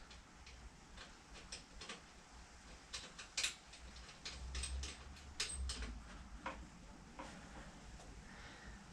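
Irregular light clicks and taps of a metal engine cover and its bolts being handled and fitted by hand, with a couple of sharper knocks partway through.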